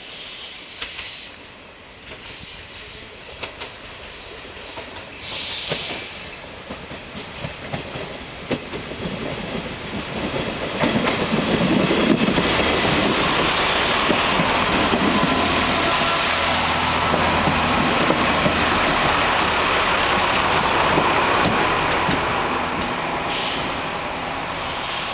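CP diesel railcar train approaching and running into the station, first distant with clicks over the rails, then getting much louder about ten seconds in as it comes close. It stays loud with a low, steady diesel engine hum as it slows alongside the platform, easing off near the end with a short hiss.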